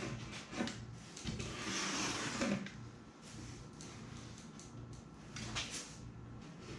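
Rubbing and scraping from a piece of foam being handled and fitted into the front of a foam kayak hull, with a few small clicks and knocks. The longest stretch of scraping comes about a second in, and a shorter one comes near the end.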